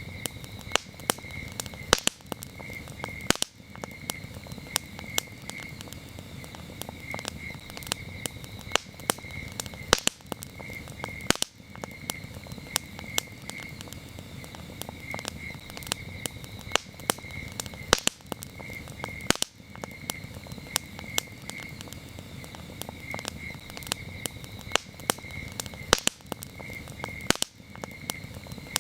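Wood fire crackling with frequent sharp pops over a low steady rush, while crickets chirp in short high-pitched pulsed groups.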